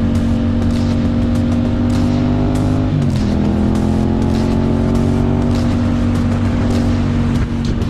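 Yamaha MT-07's parallel-twin engine through an IXIL aftermarket exhaust, pulling under way with its pitch slowly rising. A gear change about three seconds in drops the pitch, and it then climbs again, with wind buffeting the microphone.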